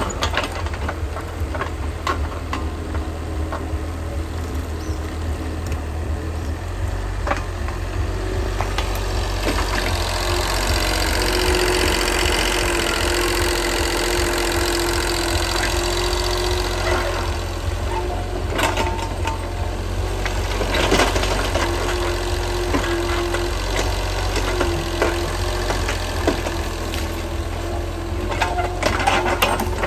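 A steady low engine rumble with a few scattered clicks.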